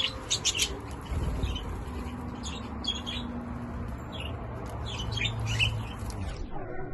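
Budgerigars chirping, short high chirps scattered throughout, which stop suddenly about half a second before the end.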